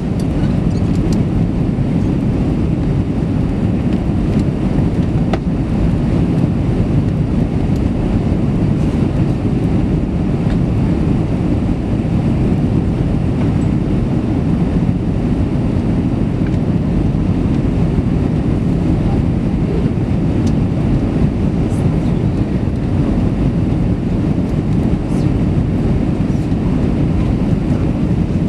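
Steady low rumble of an Airbus A320's engines and airflow, heard inside the passenger cabin.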